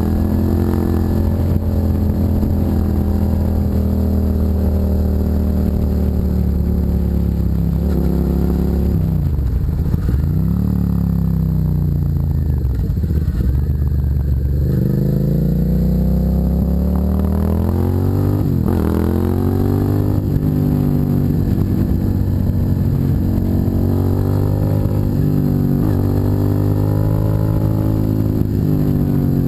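2007 Suzuki SV650's 645 cc V-twin running through a custom exhaust while riding. The engine pitch falls and rises several times, climbing steadily in the middle and then dropping suddenly, as when accelerating and shifting up.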